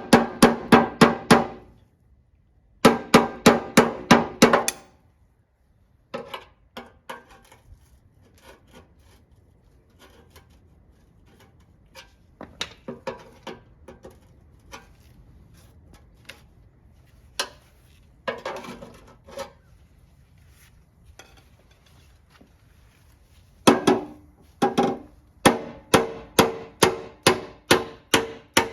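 Hammer striking metal in quick runs of about four or five ringing blows a second, with lighter, scattered taps between runs; the longest run starts near the end.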